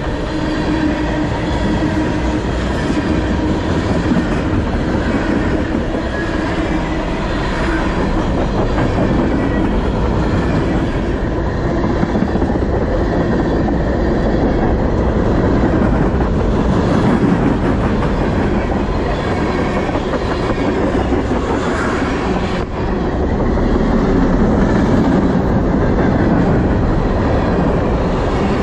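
Manifest freight train's cars (gondolas, tank car, covered hoppers) rolling past close to the track: a steady, loud rumble and rattle of steel wheels on the rails.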